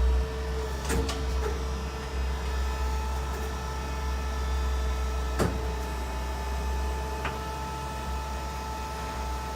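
1995 Daewoo Puma 8S CNC turning center running under power: a steady low hum with a whine, a few sharp clicks and clunks, and about six seconds in the whine changes to a higher tone.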